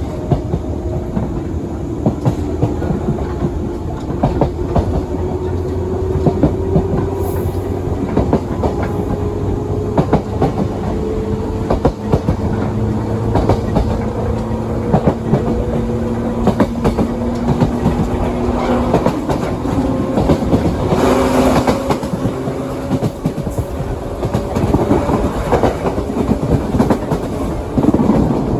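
JR 117 series electric train running, heard from inside the passenger car: a steady rumble with repeated rail-joint clicks and a faint motor hum that slowly rises in pitch. About two-thirds of the way through there is a brief louder hiss.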